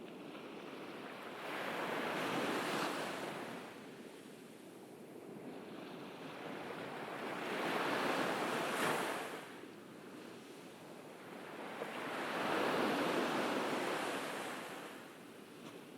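Ocean waves breaking on a beach: three slow swells of surf, each building up and washing away, about every five or six seconds.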